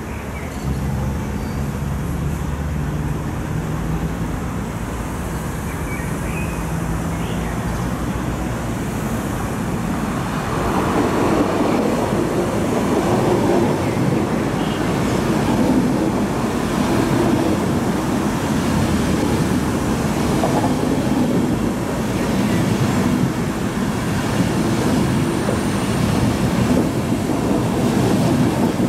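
Electric Intercity passenger train passing close by, its wheels rumbling and clattering over the rails. The noise swells about a third of the way in as the coaches come alongside and stays loud to the end.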